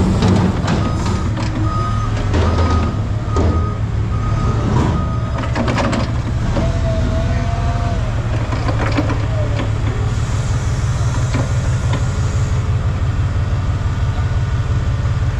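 Forklift's reversing alarm beeping about once a second for the first five seconds over a steady running engine, with sharp metal clanks of scrap being handled.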